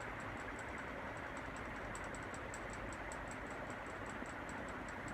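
2001 Banvil Envirofan Heavy Duty Gold Line industrial ceiling fan running on second speed, a steady rush of moving air with a rapid ticking of about six clicks a second. It is wobbling on a makeshift U-loop hanger that stands in for its missing bushing connector.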